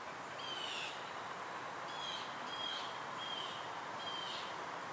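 A bird calling: about half a dozen short, slightly falling notes at uneven intervals, over a steady background hiss of outdoor ambience.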